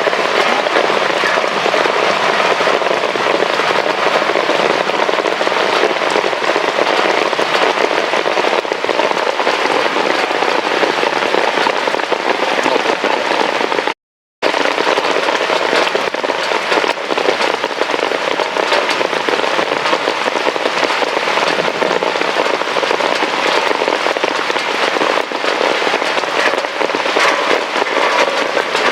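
Heavy rain falling and pattering hard on a surface: a loud, steady hiss dense with crackling drop hits, cut off for a split second about halfway through.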